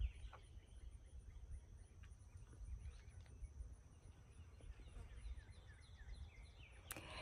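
Near silence with faint bird chirping: runs of short, falling notes, a few a second, near the start and again from about five seconds in, over a low background rumble.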